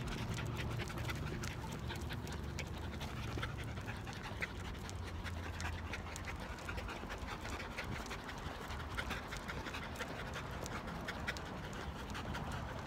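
Dogs panting, with many light, irregular clicks of claws on the metal bridge deck and a low rumble underneath that is strongest in the first few seconds.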